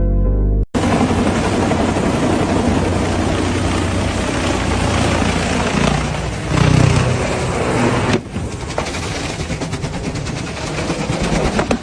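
Loud helicopter rotor and engine noise with a fast flutter, and a deep boom about seven seconds in, as in a helicopter crash sequence.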